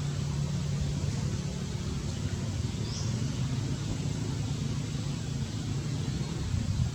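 Steady low rumble of a running engine, with a brief high chirp about three seconds in.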